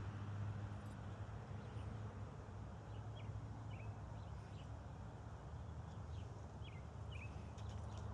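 Quiet outdoor ambience: a steady low rumble and hiss, with several short, high bird chirps in the middle.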